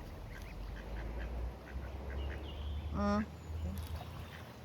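Ducks quacking softly in a quick series of short calls.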